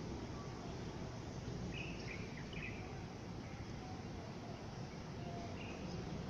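Steady low background rumble with a few short bird chirps, a cluster about two seconds in and one more near the end.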